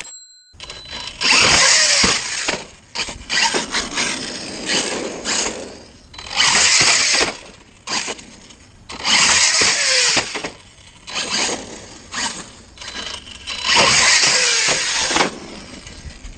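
Arrma Outcast 6S brushless RC stunt truck driven in hard bursts, its motor revving and tyres spinning on the ground about four times for a second or two each, with knocks and clatter from the truck in between.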